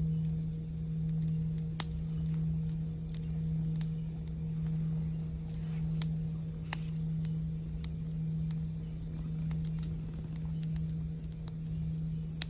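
A singing bowl's low, steady hum, swelling and fading about once a second, over the crackle of a campfire: scattered sharp pops and snaps.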